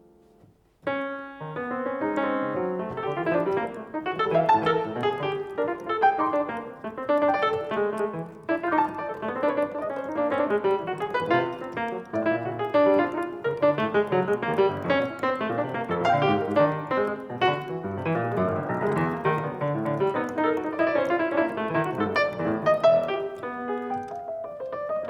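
Solo piano playing a dense, continuous flow of many quick notes, coming in suddenly about a second in.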